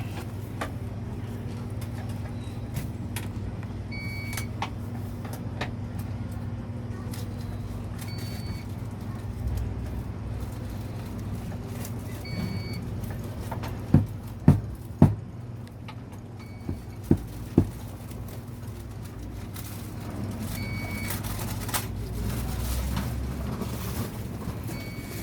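A steady low mechanical hum, with a short high beep repeating about every four seconds and a cluster of five sharp knocks about halfway through.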